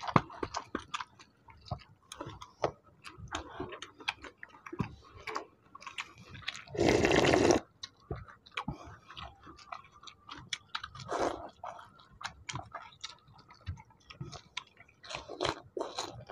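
Close-up chewing and lip-smacking with many small wet mouth clicks, from two people eating panta bhat and fried sides by hand. About seven seconds in, a loud rushing noise lasting under a second.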